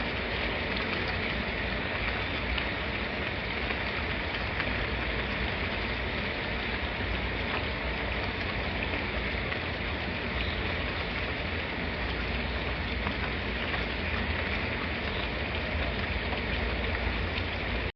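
Steady rain falling, an even hiss with fine pattering drops, which cuts off suddenly at the very end.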